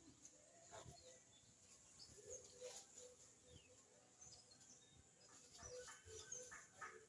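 Faint scattered chirps of small birds, with a few soft knocks.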